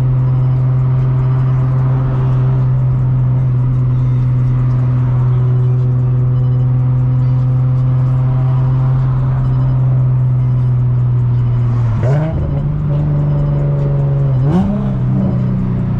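Infiniti G37's 3.7-litre V6 droning steadily at cruise, heard from inside the cabin; about twelve seconds in its pitch climbs, and it climbs again a couple of seconds later as the car picks up speed.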